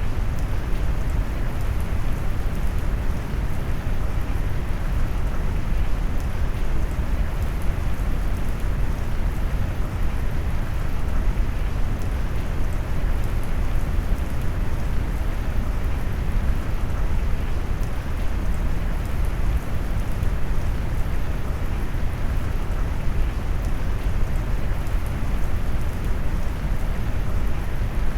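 Steady rain noise mixed with deep brown noise: an even, low rumbling hiss, heaviest in the bass and dull in the treble, with no change or separate events.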